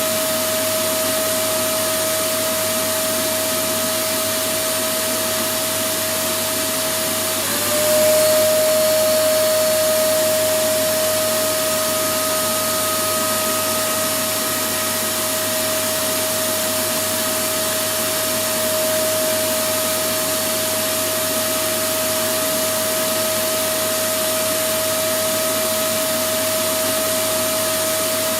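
Electric vacuum cleaner running steadily: a loud, even rush of air with a steady motor whine. About seven seconds in, the whine drops slightly in pitch and the sound briefly gets a little louder.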